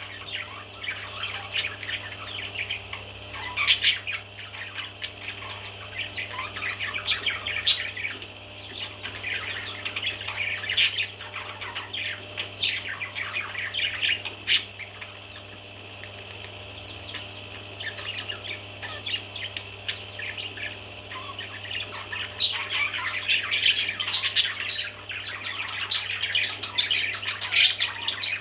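Baby parrots chirping and squawking without pause, a dense chatter of calls with louder sharp squawks now and then. A steady low hum runs underneath.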